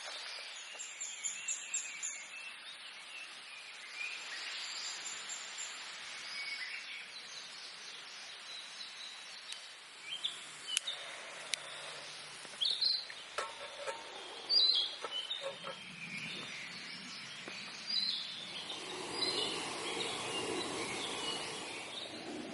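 Small birds chirping and calling, with a run of sharp clicks and knocks about halfway through.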